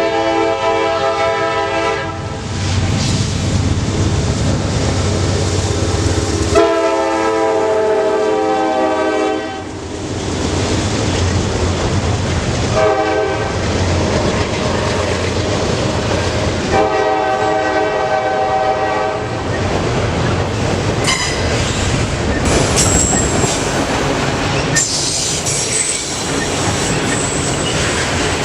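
Freight locomotive horn sounding two long blasts, a short one and a long one, the grade-crossing signal, over the steady rumble of an auto rack train rolling past. In the last several seconds, high wheel squeal rises from the passing cars.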